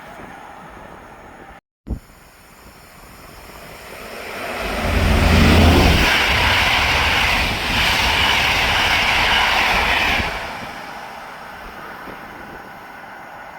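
Train passing on the line: rail noise and a low rumble build up from about three seconds in, stay loud for about five seconds as it goes by, then die away.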